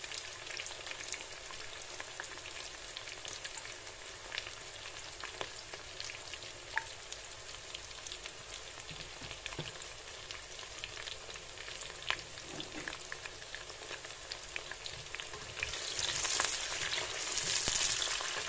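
Cut onions sizzling in hot oil, a steady hiss with scattered small pops and crackles. About sixteen seconds in, a wooden spoon starts stirring them and the sizzle gets louder.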